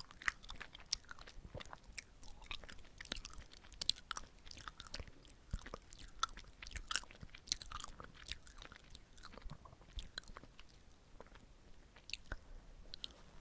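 Close-miked chewing of chewy red-bean-filled glutinous rice cake (chapssaltteok): soft, wet, sticky mouth sounds, many small irregular smacks and clicks.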